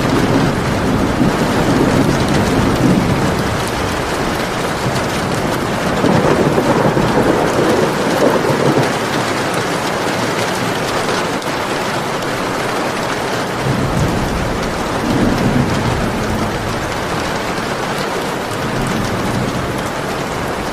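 Steady heavy rain with thunder rumbling in the background, swelling in low rolls about a second in, around six to nine seconds in, and again near fifteen seconds in.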